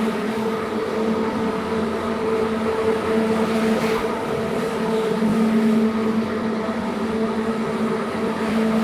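Carpet-cleaning machine running steadily, giving a constant motor hum with a hiss of air and water.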